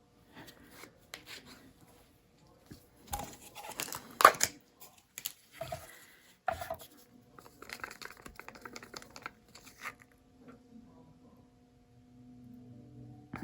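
Irregular tearing and crinkling handling noise with sharp clicks, loudest in a burst about four seconds in, with more rustling a few seconds later.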